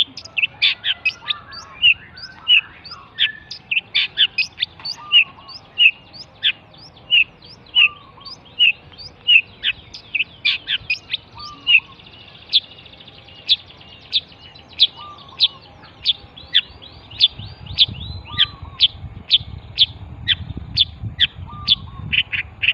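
Long-tailed shrike (pentet) singing: a rapid run of short, sharp, downward-sweeping notes, two or three a second, with an occasional lower, curled note between them. A low rumble comes in under the song in the last few seconds.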